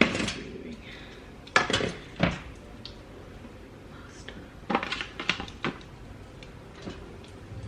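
Cutlery clinking against a plate or dish, a couple of sharp clinks about a second and a half in and a small cluster of them around five seconds in.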